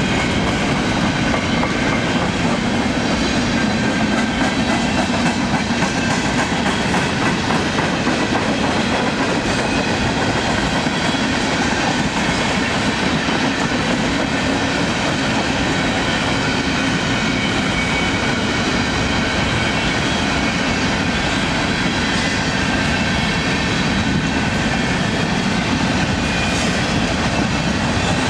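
Freight train of covered hopper cars rolling past at steady speed, its steel wheels clattering on the rails in a continuous rumble.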